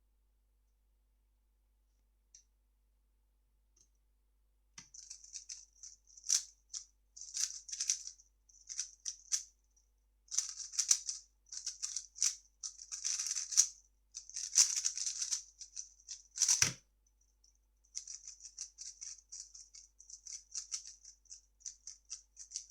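A 3x3 speedcube being turned fast: quick runs of plastic clicking and rattling start about five seconds in, broken by one sharp thump a little past two-thirds of the way through. A lighter run of turning follows.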